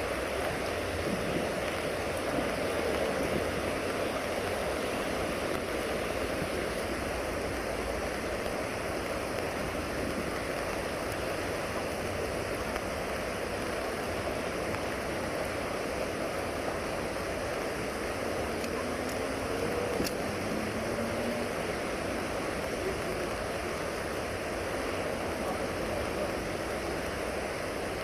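Steady rush of floodwater streaming along a street in a downpour.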